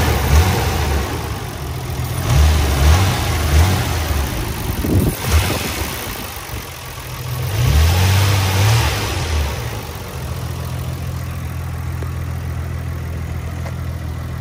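Nissan Skyline R34 GT-R's RB26DETT twin-turbo straight-six free-revved in a series of short throttle blips, one longer rev about eight seconds in, then settling back to a steady idle.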